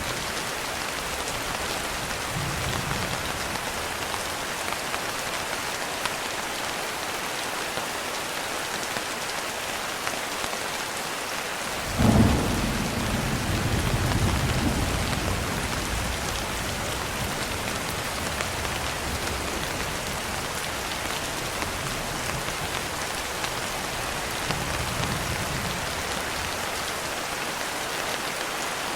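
Steady rainfall with a sudden thunderclap about twelve seconds in that rolls on as a low rumble for several seconds; fainter distant thunder rumbles swell and fade at other moments.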